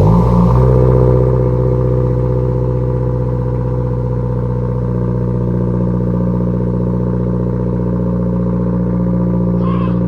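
Subaru WRX turbocharged flat-four with an aftermarket cat-back exhaust starting up: it fires, flares briefly higher, then settles into a steady, loud idle.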